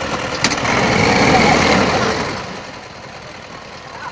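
Tractor diesel engine working hard under load, getting louder for about two seconds and then fading, with a sharp click near the start.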